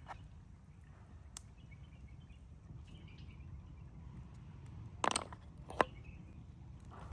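A few sharp knocks of a knife against a wooden cutting board while beef is being hand-chopped: one about a second in and a short cluster about five seconds in, with a single knock soon after. A low steady outdoor background with faint bird chirps runs underneath.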